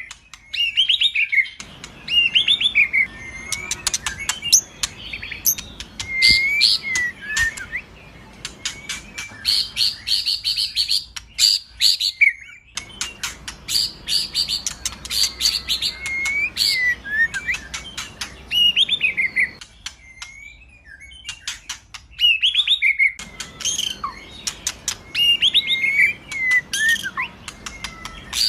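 White-rumped shama (murai batu) singing a long varied song of sliding whistled phrases, broken by fast runs of rapid ticking, chattering notes.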